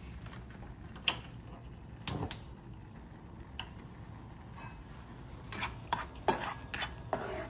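A cooking utensil clinking and scraping against a pan while stirring: sharp clinks about a second and two seconds in, then a quick run of clinks near the end, over a low steady hum.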